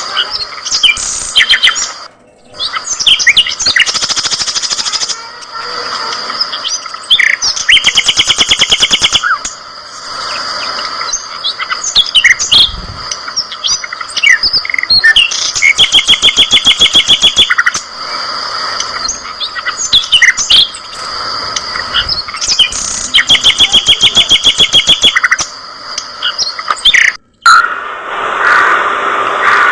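A flock of budgerigars chattering and chirping, with fast buzzy trills that come back every few seconds.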